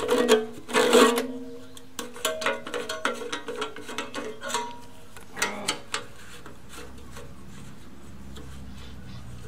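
Metal parts and tools clanking and rattling during mower repair work. Several knocks ring briefly, the loudest in the first second, and a faint low steady hum begins about six seconds in.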